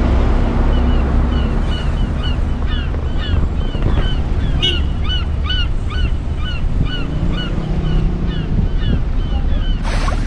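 A bird calling over and over in short, hooked chirps, about three a second, over a steady low rumble of wind on the microphone.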